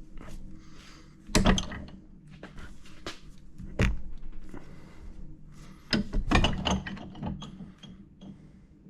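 Metal knocks and clunks from a steel engine pushrod being worked in a bench vise to straighten it. There are four or five sharp impacts spread through, with a cluster just past the middle.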